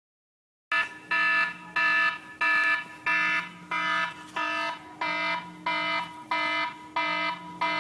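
Electronic alarm beeping, about two high-pitched beeps a second, starting about a second in after silence.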